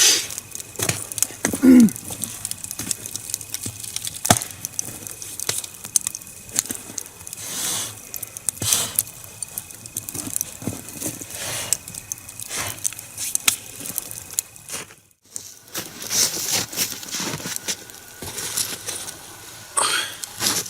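Two-log nodya fire crackling, with irregular sharp pops and snaps from the burning wood; the sound breaks off briefly about 15 s in and resumes.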